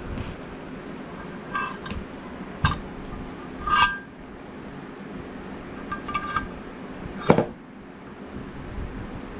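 Steel vise parts clinking and knocking together as they are handled and fitted during reassembly. There are about six separate clinks, a couple of them ringing briefly, and a heavier knock near the end.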